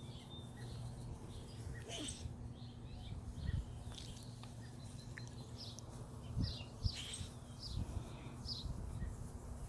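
Birds chirping: a few short, high notes, most of them near the end, over a steady low hum, with a couple of soft thumps.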